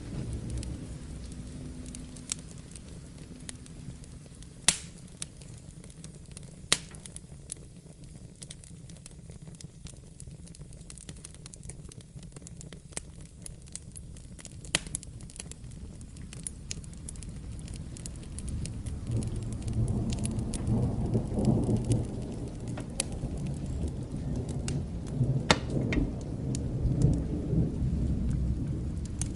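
Steady rain with a low rumble of distant thunder that swells up about two-thirds of the way through and rolls on for several seconds. A few sharp pops from a crackling wood fire sit on top.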